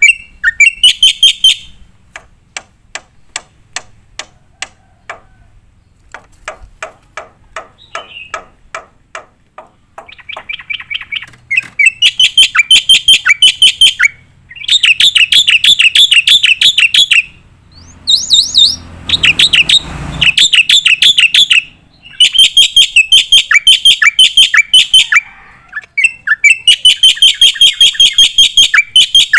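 Black-winged myna (jalak putih) singing loudly in bursts of rapid, repeated high notes, each burst a couple of seconds long with short pauses between. Fainter, evenly spaced clicking notes fill the first third, and a brief rougher, noisier sound comes about two-thirds of the way through.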